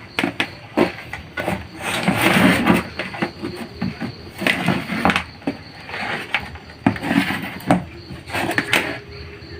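Irregular clicks, knocks and rustling from hands handling the amplifier, its cables and power cord as the connections are made.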